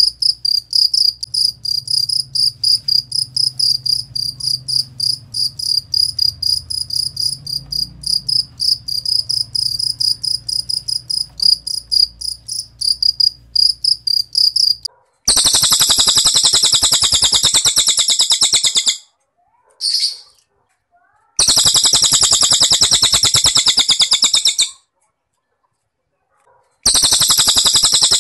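A cricket chirping in quick, high pulses. About halfway through it gives way to a cililin bird's rapid, buzzy trills, which come in long bouts of about three seconds with short silent gaps and one brief burst between them.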